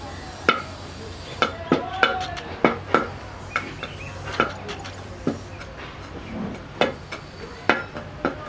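Irregular sharp metallic knocks and clinks, about one or two a second, some ringing briefly, as of tools striking metal in a metalworking shop, over a steady low hum.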